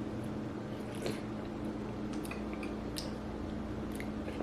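Spoon working through a bowl of berries in coconut water: a few small clicks against the bowl and wet squishing of the fruit, over a steady low hum.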